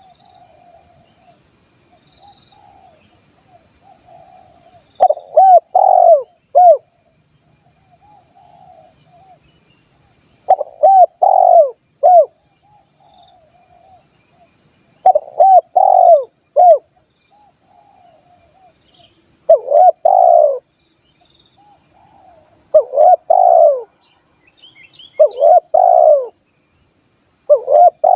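Spotted dove (tekukur) cooing: seven loud phrases of two to four arching coos, a few seconds apart, with softer coos between them. A steady high insect buzz runs underneath.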